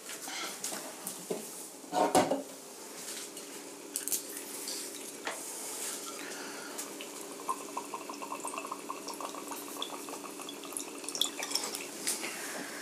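Scattered clinks of dishes and cutlery, the loudest about two seconds in, over a steady low hum.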